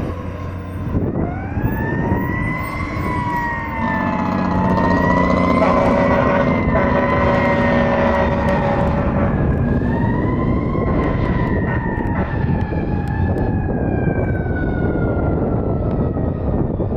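Fire truck siren wailing as the 2002 Sutphen Monarch aerial platform responds. The siren winds up about a second in and wavers, then winds up again midway and slowly falls. Air horns sound steadily for several seconds in the middle, over the truck's engine rumble.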